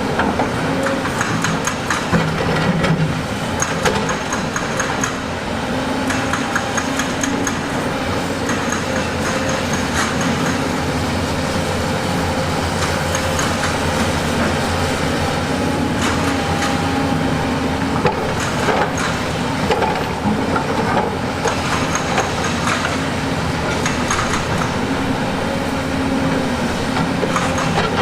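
Heavy diesel construction machinery running steadily under load, with repeated clanks and knocks of metal tracks and steel on rock.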